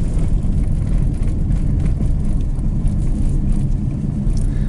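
Car in motion heard from inside the cabin: a steady low rumble of engine and tyres on the road.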